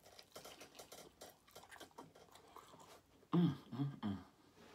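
Close-up chewing of barbecued pork ribs: a run of faint wet smacks and clicks as the meat is bitten off the bone and chewed, then a short voiced hum of enjoyment, in two or three rises, a little over three seconds in.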